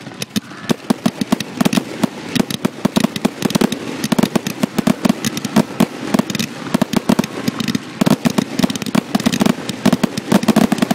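Aerial fireworks going off at close range: a dense, continuous barrage of sharp pops and crackles, many per second, from shells bursting into crackling, glittering stars.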